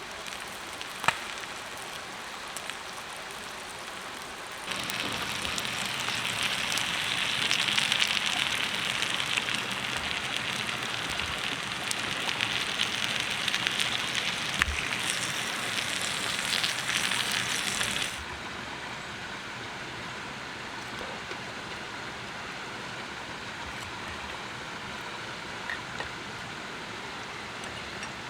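A steady hiss with scattered sharp crackles and clicks. It turns abruptly louder and brighter about five seconds in, then drops back just as suddenly near two-thirds of the way through.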